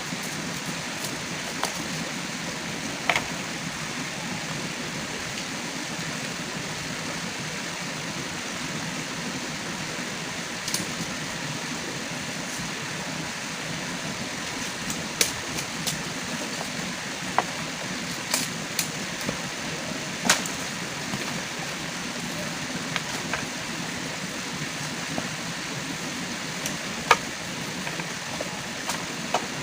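Steady hiss of heavy rain, with about ten sharp knocks or clicks scattered through it, the loudest about 20 and 27 seconds in.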